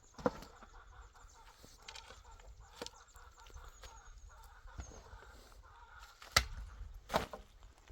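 Chickens clucking, with several sharp knocks: one just after the start and the two loudest near the end, under a second apart.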